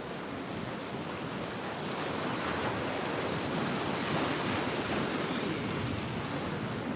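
Ocean surf washing in along the shore, a steady rushing noise that swells somewhat through the middle, with wind.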